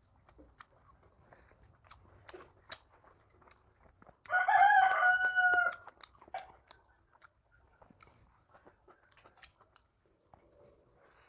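Soft chewing and mouth clicks of people eating, with a rooster crowing once about four seconds in: a steady call of about a second and a half that is the loudest sound.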